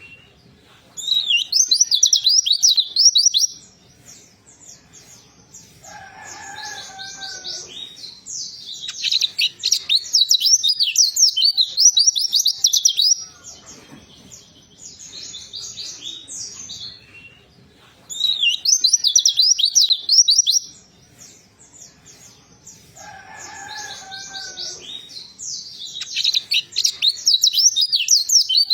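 White-eye (pleci) singing: loud bursts of fast, high, twittering trills lasting a few seconds each, four times, with softer, lower warbled notes in the pauses between.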